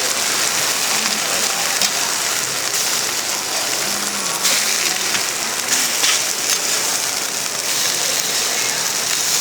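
Large pancakes frying in oil on a griddle: a steady, dense sizzle with a few faint clicks.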